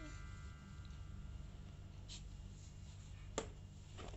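Quiet room tone with a steady low hum, broken by a faint click about two seconds in and a sharper click at about three and a half seconds.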